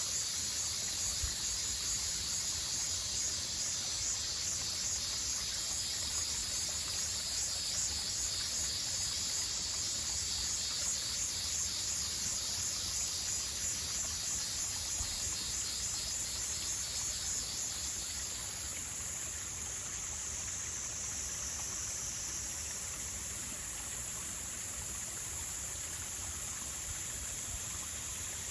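A steady, high-pitched chorus of insects calling, with a fast pulsing layer that drops out about two-thirds of the way through, leaving a smoother high drone.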